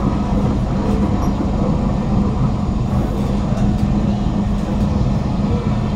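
Steady running noise heard inside a Kawasaki Heavy Industries C151 MRT car: an even rumble with a constant low hum.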